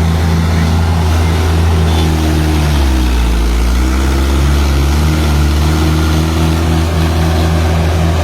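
Tractor diesel engine running loudly under load while pulling a tractor stuck in mud. Its speed sags about three seconds in and climbs back a second later.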